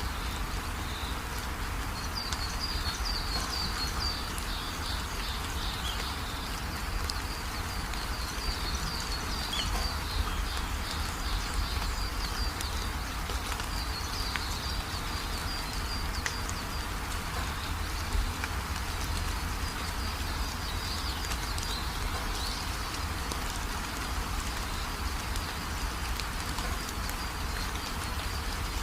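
Steady rainfall with birds chirping in short, high trills that come and go several times.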